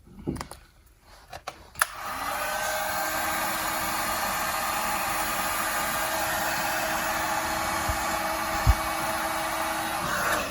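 Handheld hot-air blower switched on with a click about two seconds in, running steadily with a constant whine, then switched off near the end. It is heating old snowmobile decals to soften them for scraping.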